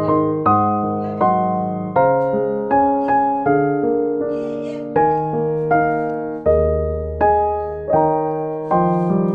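Background piano music: a gentle melody of single notes struck about once every three quarters of a second, each decaying before the next.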